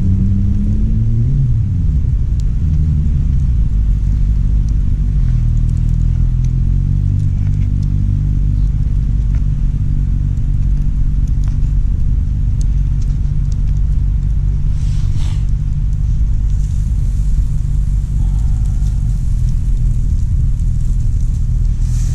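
Steady low engine-like drone with a pitched hum whose pitch glides in the first couple of seconds, then holds.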